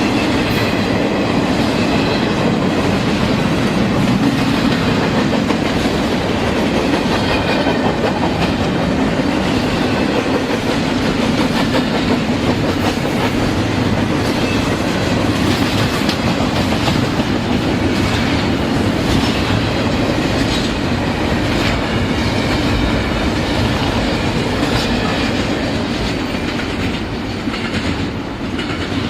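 Train cars rolling past at close range: a steady rumble of wheels on rail, with irregular clicks as the wheels cross rail joints and faint, thin wheel squeal above it.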